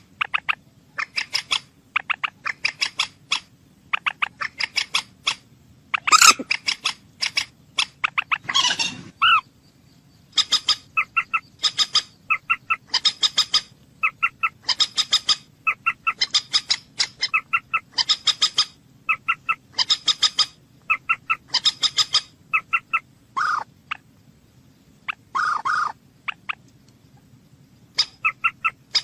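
Bird calling: short harsh notes in quick clusters of two to five, about one cluster a second, with a couple of longer drawn-out notes early on and short pauses near the end.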